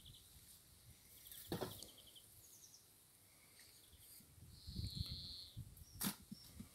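A bird chirping in quick runs in the background. Two sharp knocks, one about a second and a half in and one near the end, come from a hive tool working the wooden hive box. A brief low rumble around five seconds in.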